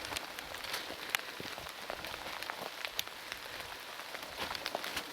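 Heavy rain falling steadily, with many separate drops ticking sharply and irregularly close to the microphone.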